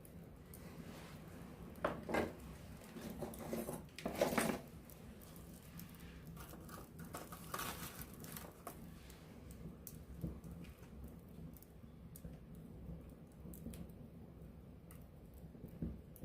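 Wood fire crackling and popping, with scattered sharp snaps and louder flurries of crackle about two, four and eight seconds in.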